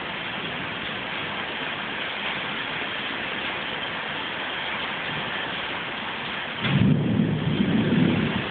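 Torrential tropical rain pouring steadily, with a loud low rumble of thunder starting about seven seconds in and lasting a second or two.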